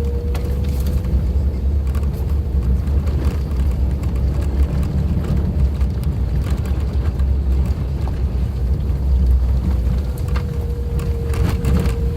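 Suzuki Jimny driving over a rough forest road: steady engine and road rumble with a whine held at one pitch, and scattered knocks from the rough surface.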